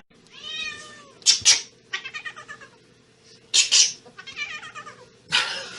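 A cat yowling and meowing in three drawn-out, wavering calls, broken by three short, harsh noisy bursts.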